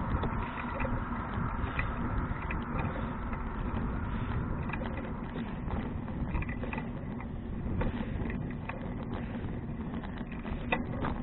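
Wind rumbling steadily on an action camera's microphone while riding a bicycle, with scattered small clicks and rattles from the bike.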